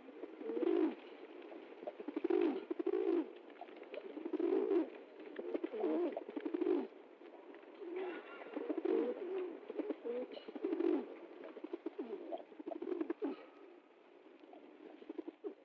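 Pigeons cooing: a steady run of low, repeated coos, several calls overlapping one another.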